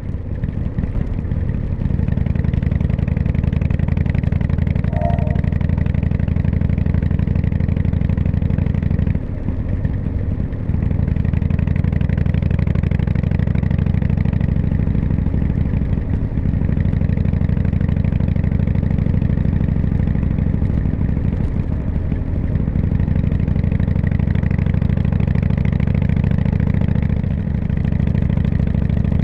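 Harley-Davidson motorcycle's V-twin engine running steadily while riding, briefly dipping in level about nine seconds in.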